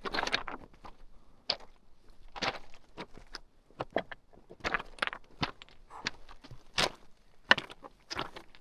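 Hiking footsteps scuffing and crunching on a rocky trail, irregular steps roughly one or two a second.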